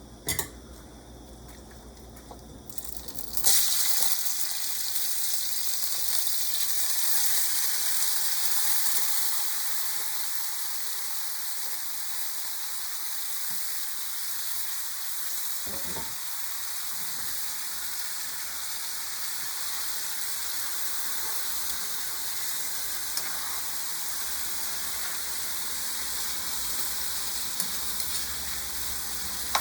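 Seasoned chicken wings sizzling in a hot pot as they are steamed out. The sizzle starts suddenly about three and a half seconds in, loudest at first, then settles to a steady sizzle.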